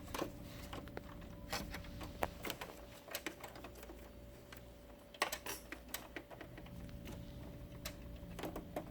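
Scattered sharp plastic clicks and taps as the printer's tray separation pad and surrounding plastic parts are handled and fitted back into the LaserJet, with a quick cluster of clicks about five seconds in, over a faint steady hum.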